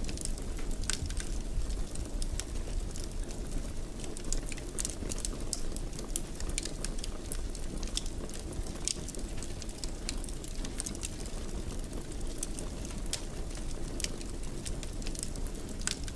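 Wood fire burning in a fireplace: many sharp crackles and pops at irregular intervals over a steady low rumble.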